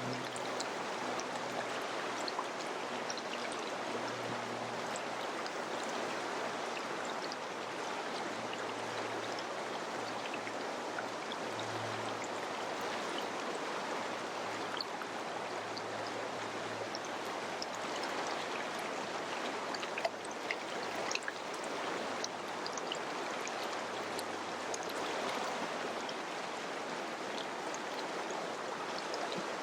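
Mountain river flowing steadily, a constant rush of water with scattered small splashes and drips.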